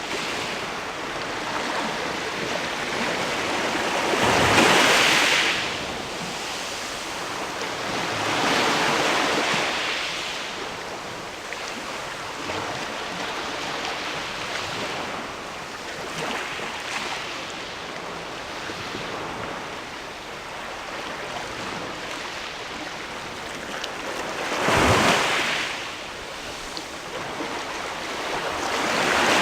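Sea waves washing against a rocky shore at the base of a sea rock: a steady wash of water, with four bigger waves surging in, the loudest about four seconds in and about twenty-five seconds in.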